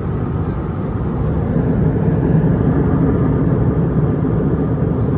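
Cabin noise of an Airbus A320 airliner in cruise: a steady, deep rush of engine and airflow noise, swelling a little about two seconds in.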